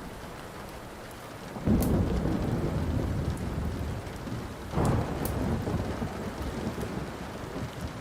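Thunder rumbling twice, each peal starting suddenly and rolling away, over steady rain, with a few sharp pops from a crackling wood fire.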